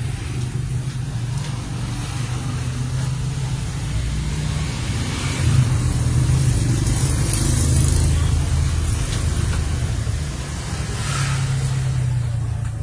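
A steady low mechanical rumble that swells about halfway through and again near the end, with some hiss above it.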